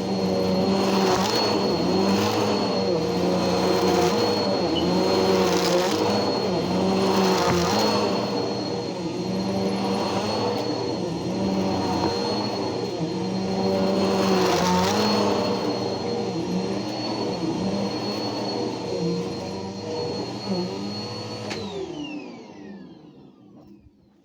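Bissell PowerForce Helix upright vacuum cleaner running, its motor whining steadily while the sound swells and eases every couple of seconds as it works over sawdust and wood shavings. Near the end it is switched off and the motor winds down, its pitch falling to silence.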